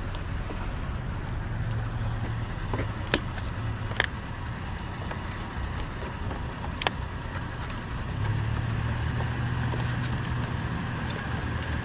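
A vehicle engine idling with a steady low hum that grows slightly louder about eight seconds in, with a few sharp clicks, one about four seconds in the loudest.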